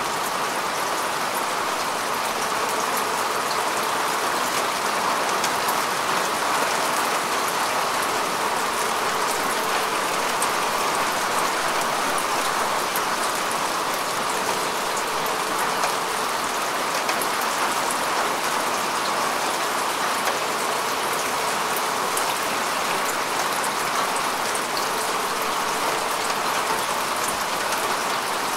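Steady rain falling on grass and earth: an even hiss with many fine drop patters.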